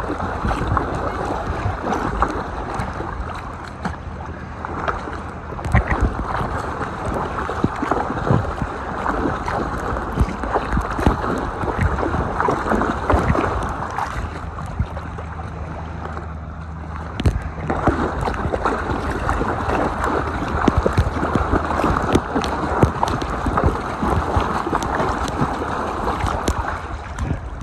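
Choppy lake water sloshing and splashing in waves, with wind on the microphone. There is a short lull about sixteen seconds in.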